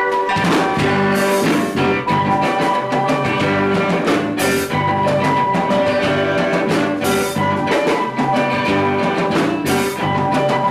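Live rock band playing an instrumental passage with guitar and drum kit, the vocals resting.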